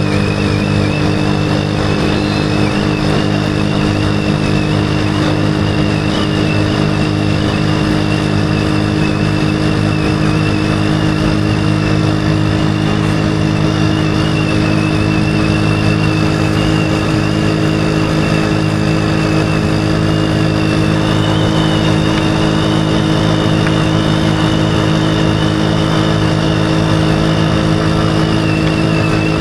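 Motorcycle engine running at a steady, unchanging speed while riding, a continuous hum with a thin steady whine above it.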